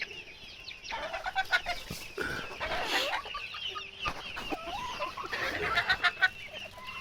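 A flock of young bantam chickens clucking and chirping, many short overlapping calls.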